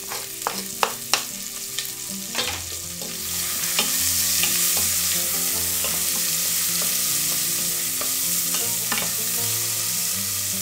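Sliced onion tipped off a plastic chopping board into hot oil in a stainless steel pot, with a few sharp taps in the first second or so. The oil then sizzles loudly, swelling about three seconds in, while a wooden spoon stirs the onion, garlic and ginger.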